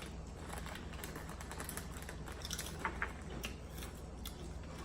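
Scattered light crackles and clicks from a crinkly snack bag being handled and a crunchy snack being eaten, over a faint steady low hum.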